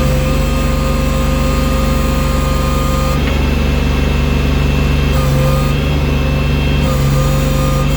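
Tractor engine running steadily, with a whine over it that cuts out and returns a few times.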